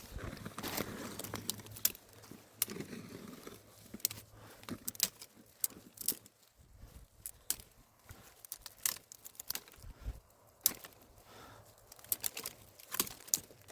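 Rustling and handling noises with many irregular sharp clicks and snaps, loudest about two seconds in and again near ten and thirteen seconds.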